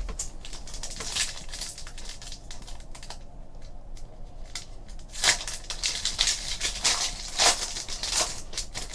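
Trading card pack wrapper crinkling and tearing as a pack is opened and the cards handled, in irregular rustling bursts that are loudest past the middle.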